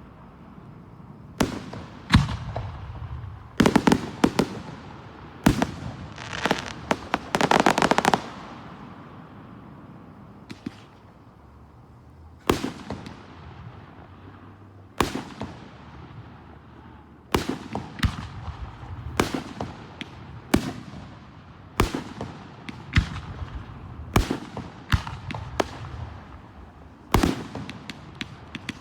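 Aerial fireworks display: shells bursting with sharp bangs at irregular intervals, each followed by echo and crackle. A dense run of crackling and bursts comes a few seconds in, a quieter lull follows near the middle, then frequent bursts pick up again toward the end.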